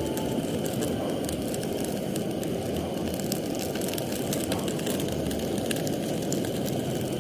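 Fishing boat's engine running steadily, a low rumble with faint scattered clicks.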